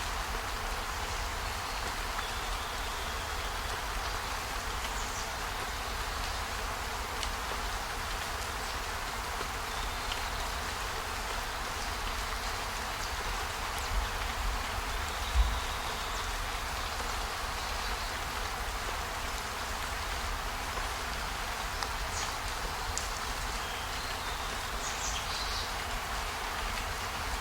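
Steady hiss of rain with a low rumble underneath and a few faint high chirps. Two soft knocks about halfway through.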